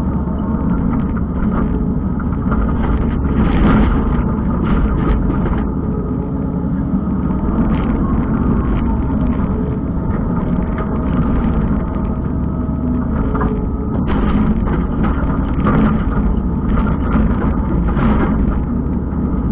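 Kubota skid steer's diesel engine running steadily under work, with scattered short knocks and scrapes from the attachment working the ground.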